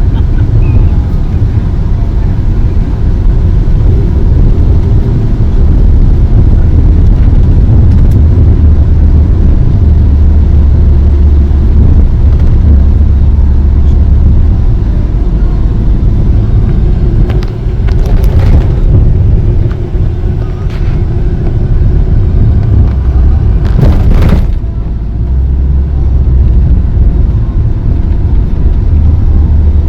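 Steady low rumble of engine and road noise heard from inside a moving tour van, with two brief louder noises about 18 and 24 seconds in.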